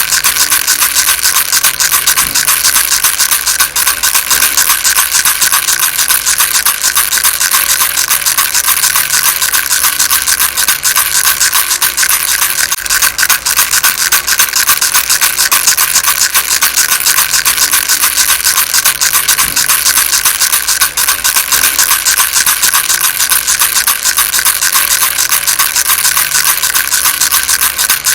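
Baby rattle shaken continuously, a fast, even stream of tiny clicks with no pauses.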